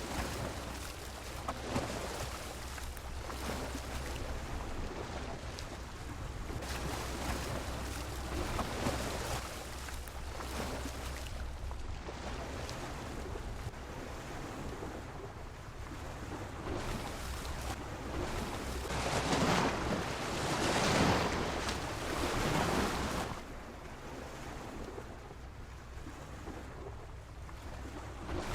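Sea waves washing against a pier, swelling and ebbing, with the biggest surge about two-thirds of the way through.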